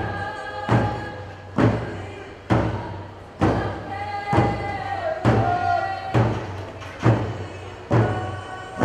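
Group singing over a steady drum beat, one strike a little under every second, a traditional Northwest Coast native song.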